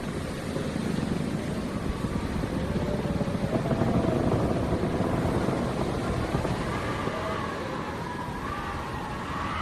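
Howling wind: a low gusting rumble that swells a few seconds in, with thin wavering whistling tones that slide up and down.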